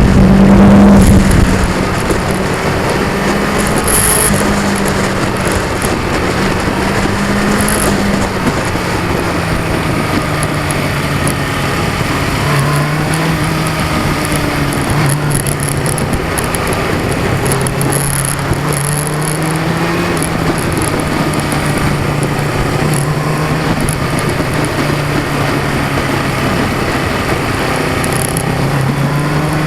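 2002 Yamaha R6's 600 cc inline-four engine running at speed under a rush of wind noise. The wind rush is loudest in the first second or so, then the engine settles into a steady note that rises and falls a little with the throttle. The sound is muddied by a vibrating action-camera mount.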